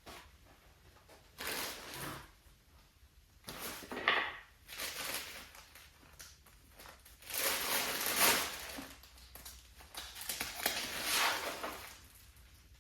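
Four bursts of rustling and crinkling as a crinkly material such as paper or plastic is handled and folded.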